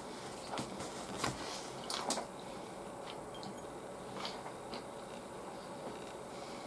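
Quiet chewing of a mouthful of beef bowl, with a few faint, scattered clicks of chopsticks against the bowl and dishes.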